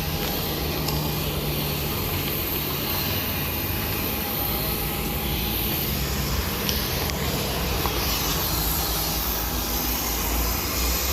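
Steady noise of a Boeing 737-900ER airliner's jet engines, an even rush with a low rumble and a faint steady hum.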